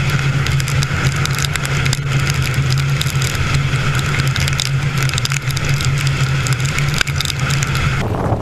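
Vehicle driving fast with a steady engine and road drone and many sharp ticks over it. The sound changes abruptly near the end.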